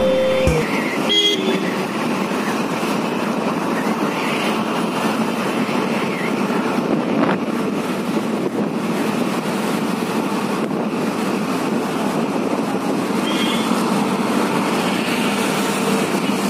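Steady road and traffic noise heard from a moving motorbike in city traffic, with a short vehicle horn toot about a second in.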